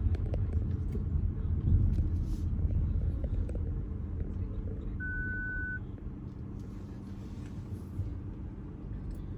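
Car driving, heard from inside the cabin: a steady low road and engine rumble, heaviest in the first couple of seconds. A single short high beep sounds about five seconds in.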